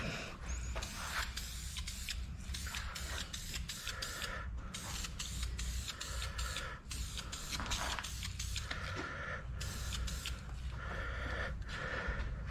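Primer being sprayed onto a repaired plastic bumper cover: a hissing spray in many short passes with brief pauses between them, over a steady low hum.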